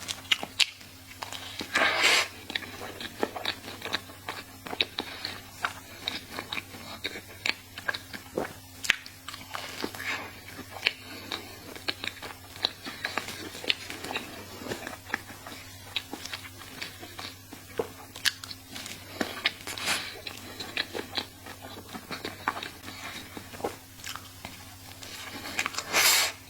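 Close-up eating sounds of chocolate crepe cake being chewed: soft chewing with many sharp wet mouth clicks. A louder, noisier burst comes about two seconds in and again near the end.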